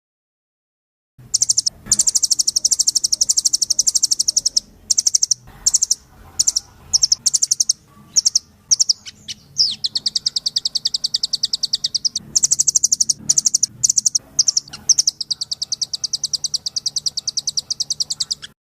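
Rambatan (nuthatch) singing: long runs of very fast, high repeated notes in a rattling trill, broken by short pauses into bursts, starting about a second in.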